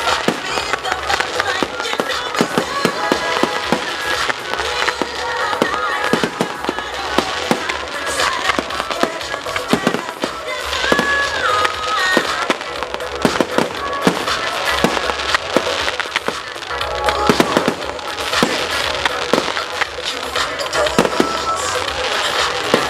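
Fireworks display: a dense, continuous run of bangs and crackling, many bursts a second.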